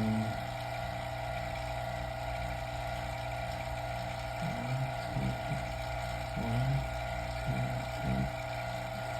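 Vacuum pump running steadily with a constant hum, pulling the chamber of a homemade vacuum furnace down to a vacuum of about 28.5 inches of mercury.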